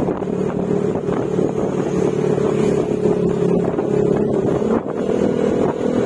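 Yamaha Mio Gravis scooter's single-cylinder engine running at a steady cruising speed through an aftermarket Akrapovic exhaust with silencer.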